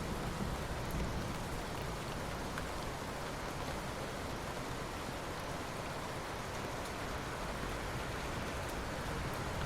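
Steady rain falling, an even hiss of many drops with faint scattered individual drop ticks, holding level throughout.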